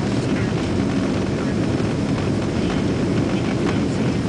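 Boeing 777-200 cabin noise from an economy seat: a steady, loud, low rumble of jet engines and airflow.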